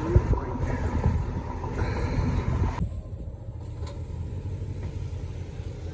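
Car driving, a steady low rumble of engine and road. About three seconds in, the hiss above it drops away abruptly and only the low rumble is left.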